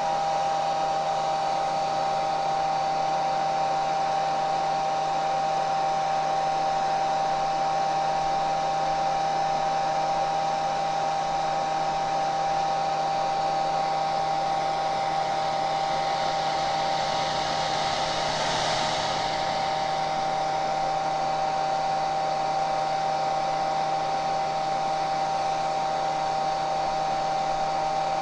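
Hair dryer running steadily: a constant rush of air over a steady motor whine. The hiss swells slightly about two-thirds of the way through.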